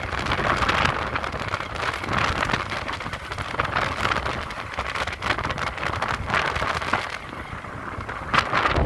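Heavy rain falling, a dense steady hiss with many close drop hits, over a low wind rumble on the microphone.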